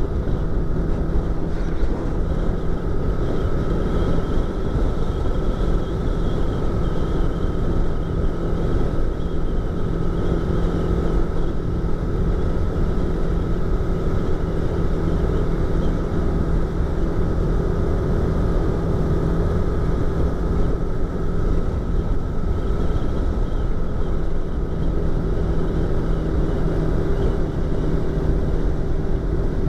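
Yamaha YZF-R25's 250 cc parallel-twin engine and exhaust running at a steady cruise, holding an even pitch, with wind rush as heard from inside the rider's helmet.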